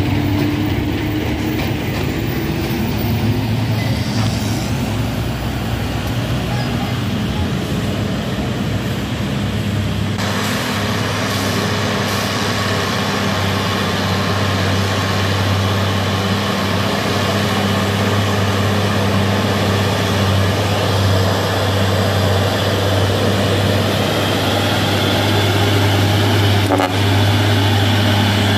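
Heavy truck diesel engine running steadily under load with a constant low hum, climbing a steep grade; more noise joins the engine about ten seconds in.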